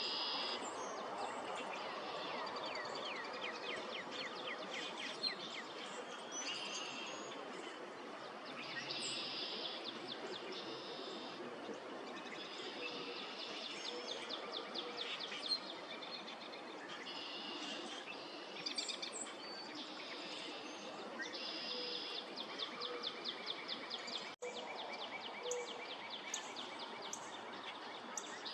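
Northern mockingbird singing a long run of varied phrases, each one a quick series of repeated notes given several times before switching to the next, over a steady background hiss of outdoor noise.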